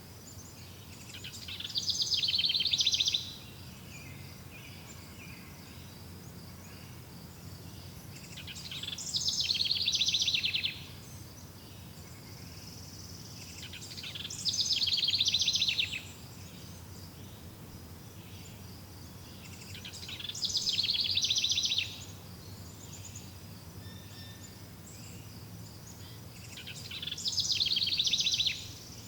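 Outdoor nature ambience: a high, finely pulsed buzzing call swells over about two seconds and then cuts off sharply. It repeats five times, about every six seconds, over a steady high insect-like drone and a low background rumble.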